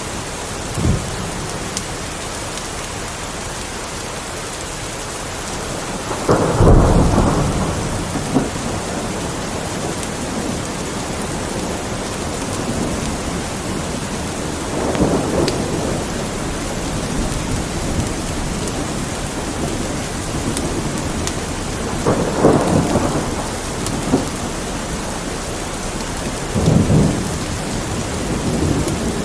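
Steady rain with four low rolls of thunder, the loudest about a quarter of the way in. Faint sharp crackles of a wood fire come through now and then.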